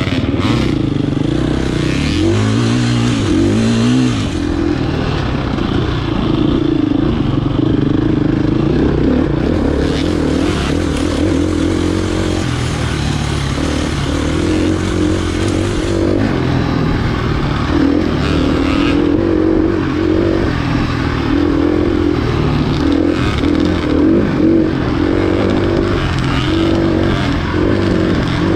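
Enduro dirt bike engine heard close up from on board, running continuously with the revs rising and falling as the throttle is worked along an off-road trail, most clearly a few seconds in. Scattered knocks and rattles from the bike going over rough ground.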